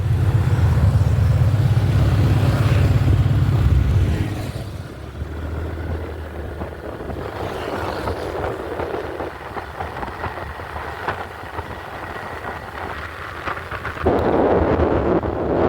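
Motorbike engine running, with a heavy low rumble for the first four seconds, then quieter, growing louder again about fourteen seconds in.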